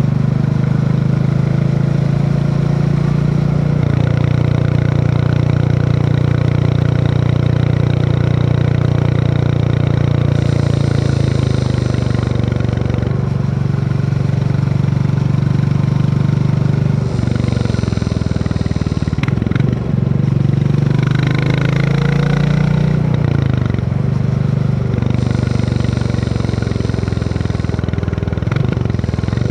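Royal Enfield Classic 350's single-cylinder engine running under way on a ride, heard steadily with wind and road noise. The engine note changes several times along the way.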